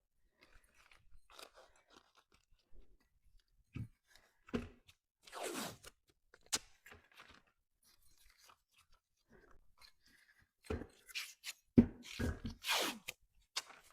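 Hands handling light fixture parts: scattered clicks, knocks and scrapes. There are two longer rasping sounds, one about five seconds in and one near the end, and a busier run of knocks in the last few seconds.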